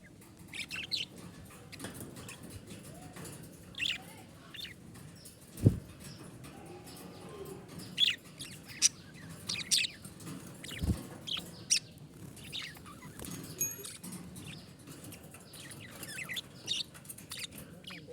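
Budgerigars chirping in short, scattered calls, with two low thumps: the louder about five and a half seconds in, another near eleven seconds.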